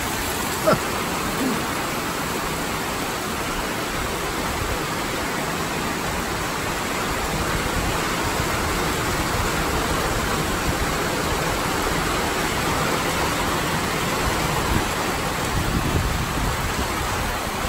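Heavy downpour: rain pouring down in a steady hiss, a little louder from about halfway through.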